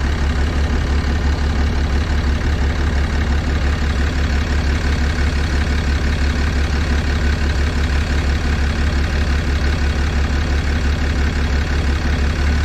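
6.7 Cummins turbo-diesel inline-six idling with a steady, low, even pulse while an injector kill test cuts out the number-three injector; the idle speed drops a little.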